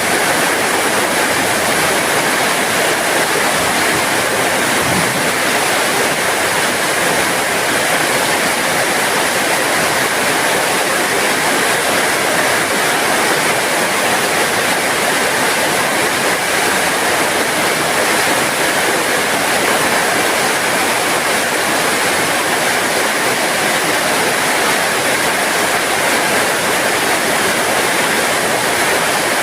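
Heavy rain falling steadily: a dense, even hiss of rain with no breaks.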